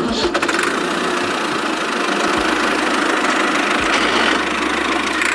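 A vehicle engine running steadily with a rough, noisy tone, starting suddenly as the music stops.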